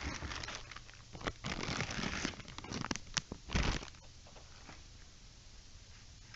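Packaging being handled: cardboard and wrapping rustling and crinkling in irregular bursts with a few sharp clicks, dying down to faint handling sounds after about four seconds.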